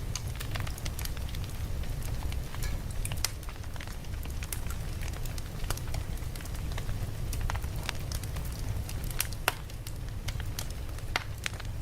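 Campfire crackling, with irregular sharp pops and snaps over a steady low rumble. One pop about three-quarters of the way through is louder than the rest.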